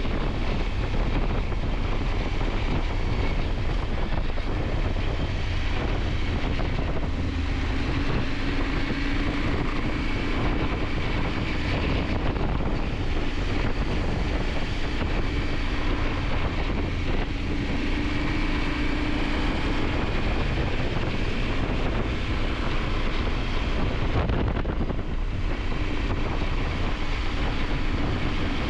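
KTM 890 Adventure's parallel-twin engine running under way, its note drifting slightly up and down, mixed with steady wind noise on the microphone.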